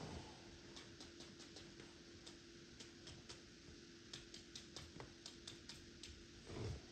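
Faint, irregular light clicks and taps over a steady low hum, with a soft thump shortly before the end.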